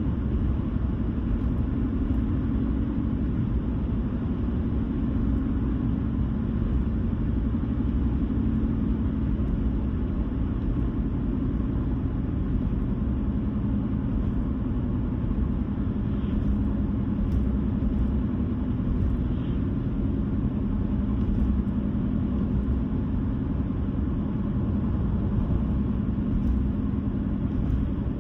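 Car driving along the road: a steady low rumble of tyre and engine noise, unchanging throughout.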